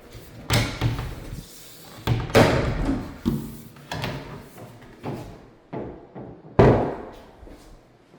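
A series of about nine sudden knocks and thuds with short ringing tails, unevenly spaced; the loudest come about two and a half seconds and six and a half seconds in.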